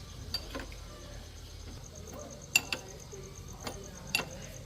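Cricket chirping in a steady, rapid, high-pitched pulse, with a few sharp clicks and knocks over it.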